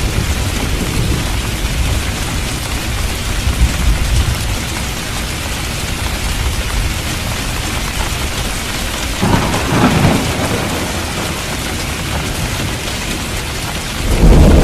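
Steady heavy rain with low rolling thunder. A sharper thunderclap breaks in a little after the middle, and a loud, deep thunder rumble begins just before the end.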